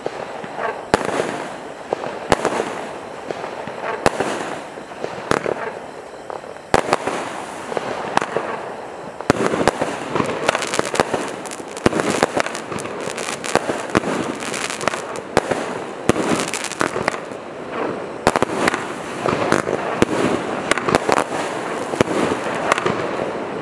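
Kimbolton 'Knees Up' 63-shot firework cake firing: a rapid string of shots and crackling bursts, coming thicker about nine seconds in.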